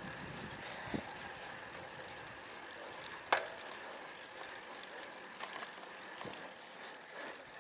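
Road bicycle on the move, its freehub ratchet ticking, with a couple of sharp clicks; the loudest is about three seconds in.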